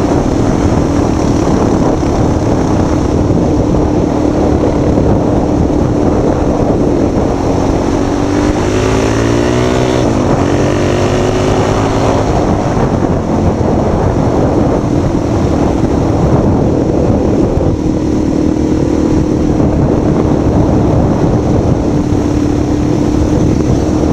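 A vehicle engine running under heavy rumbling noise, with a steady low hum throughout. The engine's pitch rises and falls briefly about eight to twelve seconds in.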